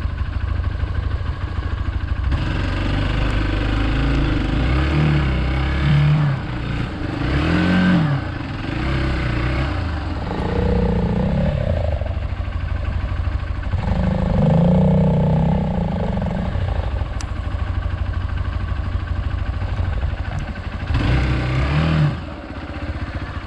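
Single-cylinder Hero Xpulse 200 motorcycle engine running off-road, revved up and down several times.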